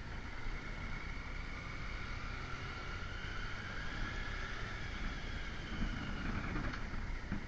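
Motorcycle engine running while riding, its note drifting slightly in pitch, with wind noise on the microphone.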